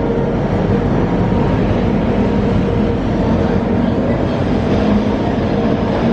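Diesel locomotive engine running with a steady, loud drone as the locomotive moves off.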